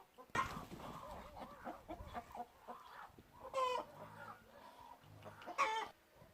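Birds calling: a run of short, quick calls, then two louder harsh calls about three and a half and five and a half seconds in.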